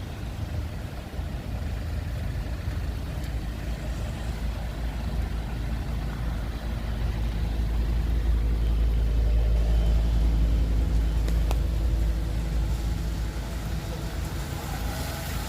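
Wind buffeting the microphone in a deep rumble, over car traffic on a rainy street; the rumble swells about halfway through and eases toward the end.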